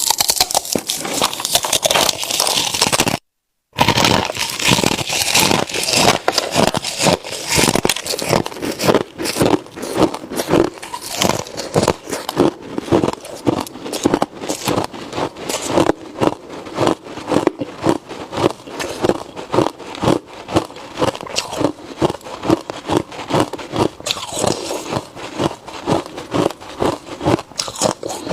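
Ice being bitten and chewed close to the microphone: a dense burst of loud crunching, a brief cut to silence about three seconds in, then a steady run of crunching chews, a few per second.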